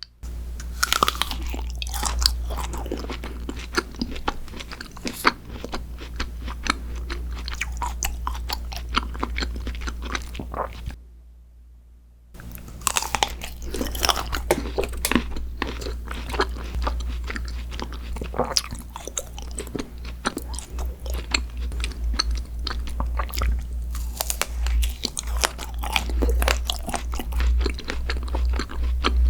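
Close-miked eating sounds: a person biting into and chewing crunchy food, with many sharp crackles. The sound breaks off to silence for about a second, around the middle, then resumes.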